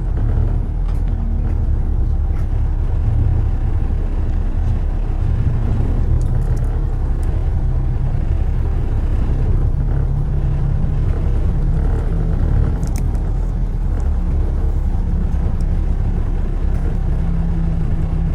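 Car driving on city streets: a steady low rumble of road and engine noise, with a few faint clicks.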